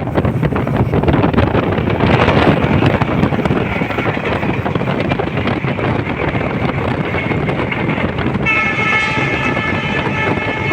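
A train running, a loud steady rumble with a dense clatter of wheels on the rails. About eight and a half seconds in, a steady high-pitched tone of several notes joins in.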